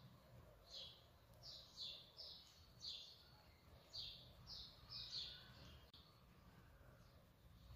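A bird chirping faintly: a run of short, high chirps about two a second, which stops around six seconds in.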